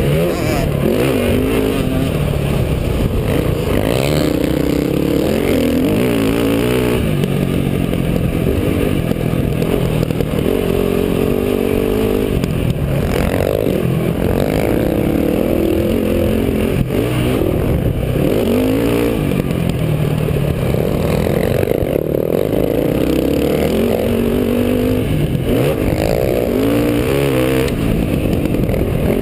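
Motocross dirt bike engine ridden hard round a track, its pitch rising and falling again and again every few seconds with throttle and gear changes.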